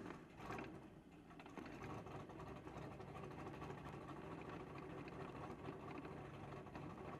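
Gasser drag car's engine idling, heard faintly from inside the car: a steady low running note with a fast, even patter.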